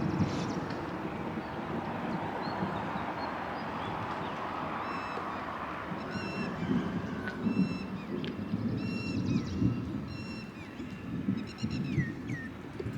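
Birds calling in short, repeated high chirps, many in quick succession from about five seconds in, over a steady low rumble.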